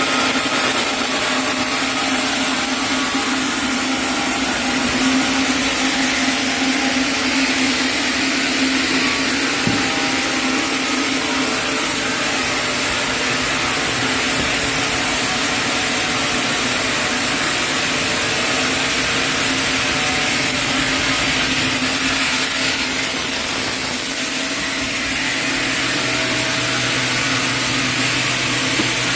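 Sawmill saw running steadily as it cuts lengthwise through a chinaberry (sendan) log.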